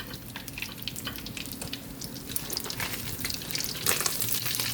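Tilapia frying in hot oil in a pan, a steady crackling sizzle that grows louder and busier near the end.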